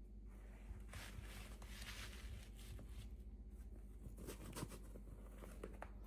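Faint rustling and a few small clicks of hands handling toy packaging.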